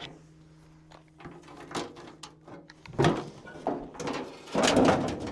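Several clunks and scrapes of sheet metal and tools as the bolted-on old fender of a 1963 Ford F100 is worked loose, the longest and loudest near the end, over a faint steady low hum.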